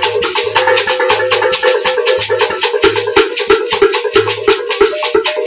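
Ogene, the Igbo iron gong-bell, beaten with a stick in a fast, even rhythm, each stroke ringing with a metallic tone.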